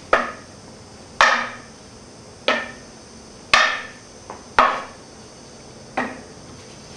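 A series of sharp whacks from blows in a staged fight: six strong hits and a faint one, irregularly spaced about a second apart, each with a short fading tail.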